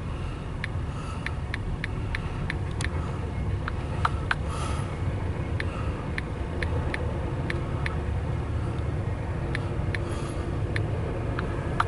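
Norfolk Southern intermodal freight train rolling past, a steady low rumble with frequent sharp clicks from the wheels on the rails.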